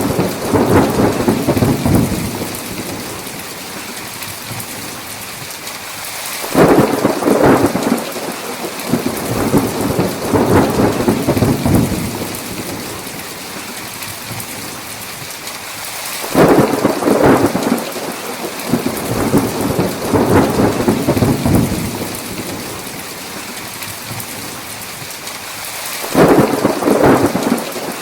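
Heavy steady rain with rolls of thunder coming about every ten seconds. Each roll starts suddenly and rumbles away over several seconds.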